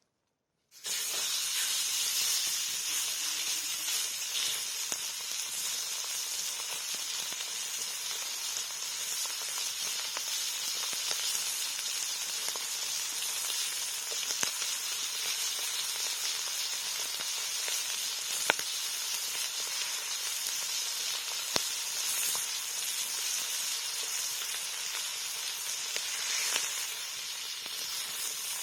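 Campfire burning with a steady hiss and a few sharp pops from the wood. It starts suddenly just under a second in.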